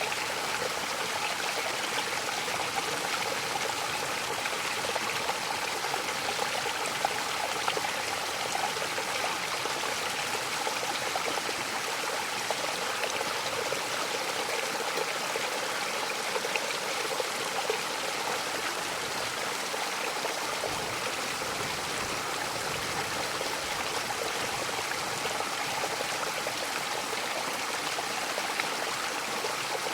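Waterfall and the stream below it rushing steadily, an even splashing hiss with no change in level.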